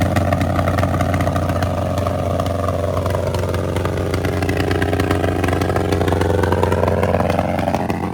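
Motorcycle engine running hard and steadily, its revs sinking through the middle and climbing again toward the end, then cutting off suddenly.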